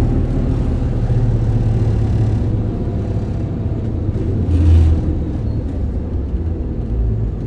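Isuzu Erga city bus (2DG-LV290N2) with its diesel engine running as the bus drives: a steady low rumble that eases off slightly partway through, with a brief louder low thud about two-thirds of the way in.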